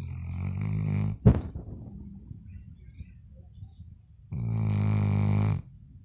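Labrador retriever snoring in its sleep: two drawn-out snores on a low, steady pitch, each a little over a second long and about three seconds apart, with a short sharp sound just after the first.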